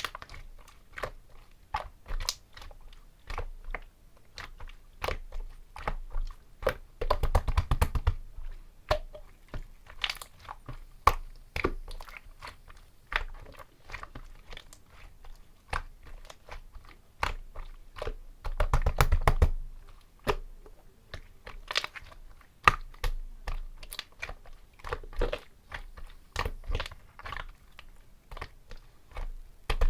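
Clear slime being played with by hand, giving irregular sticky clicks and small pops. Two longer runs of rapid crackling come about seven seconds in and again about nineteen seconds in.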